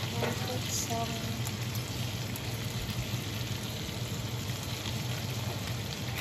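Salmon fillets, asparagus and cherry tomatoes sizzling steadily in a frying pan.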